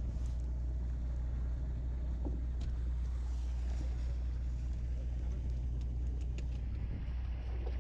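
Steady low drone of a sportfishing boat's engines running underway, with a few faint clicks.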